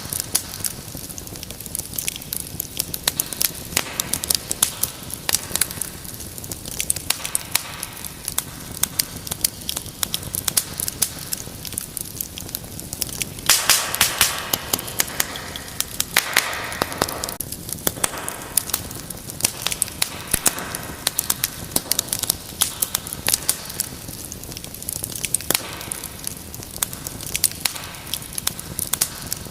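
Wood fire crackling, with frequent sharp pops and snaps over a low hiss. About halfway through it swells into a louder, denser stretch of crackle and hiss for a few seconds.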